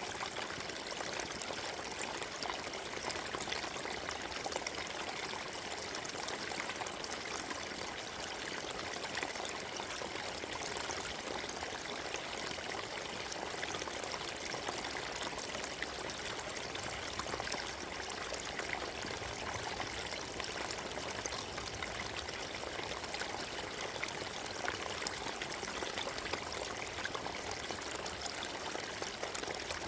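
Forest stream running over rocks: a steady, even rush of water with fine trickling and splashing.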